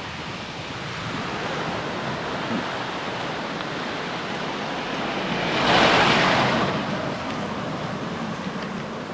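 Wind blowing across the microphone: a steady rushing, with one louder gust swelling and fading about six seconds in.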